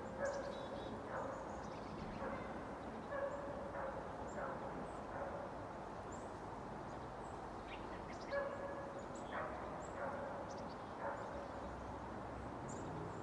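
An animal's short low call, repeated about once a second with a pause midway, with faint high bird chirps behind it.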